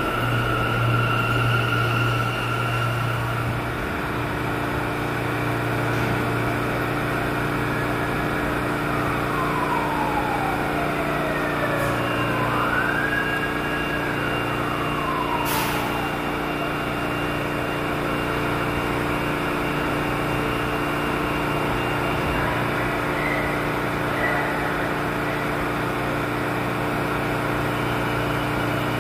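New York City subway train in the station, giving a steady electrical hum and a motor whine that slides down in pitch, then rises and falls again partway through.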